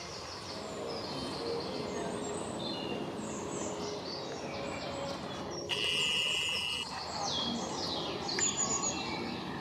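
Small garden birds chirping and twittering, many short overlapping calls. About six seconds in, a louder steady high note holds for about a second.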